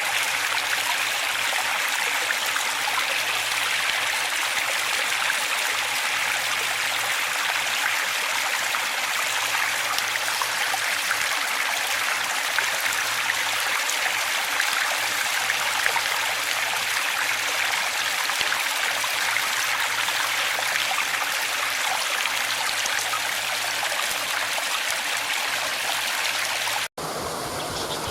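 Waterfall: water falling and rushing in a steady, even hiss. Near the end it cuts out for an instant and goes on a little quieter.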